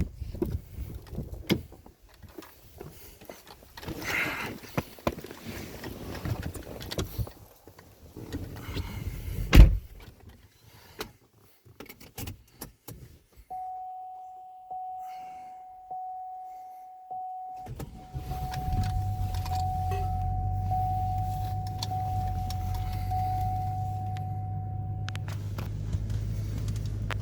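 Knocking and handling clatter with one loud thump, then a single-pitched electronic chime repeating about once a second. About eighteen seconds in, an engine starts and runs steadily with a low hum, while the chime goes on for several more seconds and then stops.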